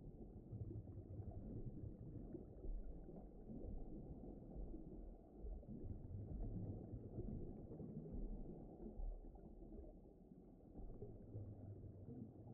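Muffled underwater ocean ambience: a deep, rumbling wash of water with no high sounds, swelling and easing every few seconds.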